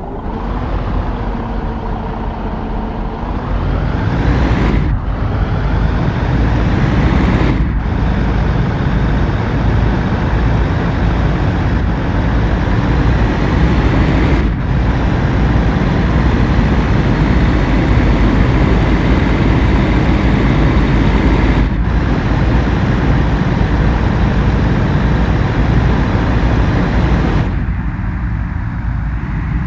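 Truck engine running hard under load, with a low heavy drone that climbs in pitch over the first few seconds. The sound dips briefly four times, then eases off near the end.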